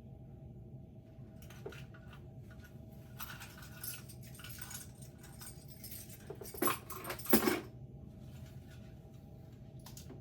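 Hampton Bay Littleton ceiling fan's motor humming steadily at its low speed setting, moving very little air. Over it, a stretch of rustling and scraping, then two louder clattering knocks a little past halfway, from something being handled.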